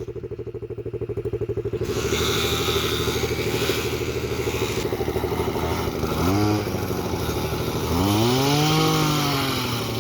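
A mini bike doing a burnout. The motor runs with a fast pulse, the rear tyre starts scrubbing with a hiss about two seconds in, and the motor's pitch then rises and falls as it revs, briefly around six seconds and again in a longer sweep near the end.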